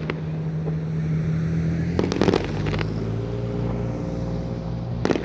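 A cluster of firework crackles and pops about two seconds in. Under it runs a steady low engine hum from a running vehicle, which shifts pitch slightly near the crackles.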